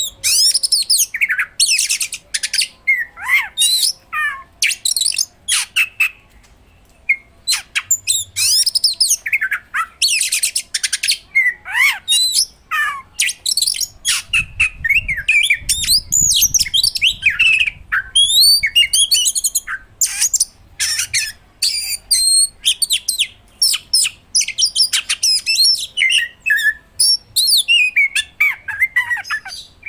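Oriental magpie-robin (kacer) singing continuously: a rapid, varied run of loud whistles, gliding notes, fast trills and harsh squawky notes, packed with mimicked phrases.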